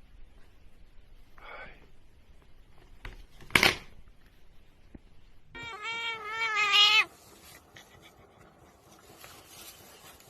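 A cat meowing: one long, wavering meow about six seconds in that grows louder before it stops, after a fainter call near the start. A sharp knock sounds a little before the meow.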